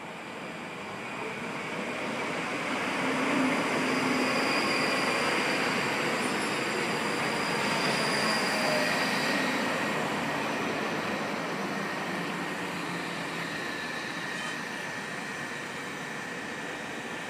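ScotRail Class 334 electric multiple unit running past along the platform. Its wheel and motor noise swells to a peak as it goes by, then slowly eases, with a thin steady high whine over it.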